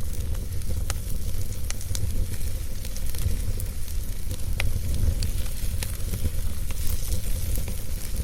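Wood fire crackling in a fireplace: scattered sharp pops at irregular intervals over a steady low rumble.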